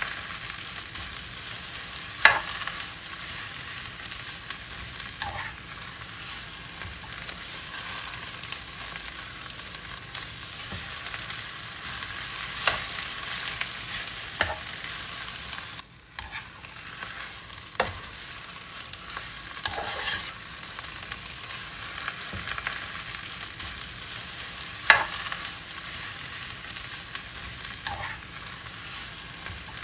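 Steady sizzling of food frying in hot oil, with occasional sharp pops and crackles; it drops out for a moment about halfway through.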